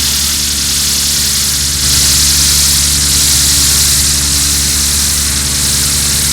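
Electronic noise passage of an acid techno track: a steady low synthesizer drone under a band of white-noise hiss that gets louder about two seconds in.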